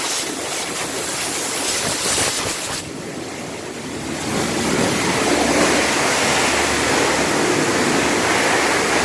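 High-pressure water spray hissing onto a car's engine bay during an engine wash. It eases for about a second a third of the way in, then runs on steadily and fuller.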